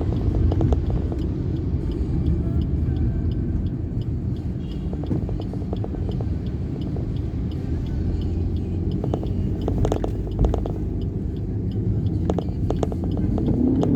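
Steady low rumble of a vehicle on the move, engine and road noise, with a faint regular ticking and a few sharp clicks about ten seconds in.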